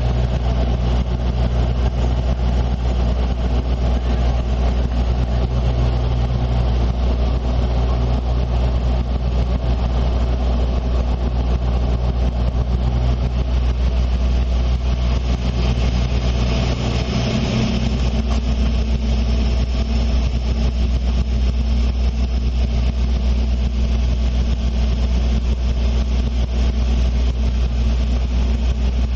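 Airliner cabin noise on the approach to land: a steady low engine drone with airflow hiss. About halfway through there is a brief swell, and after it the drone's tone shifts.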